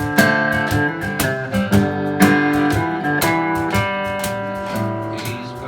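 Acoustic guitar playing an instrumental passage, strummed chords with changing held notes and no singing.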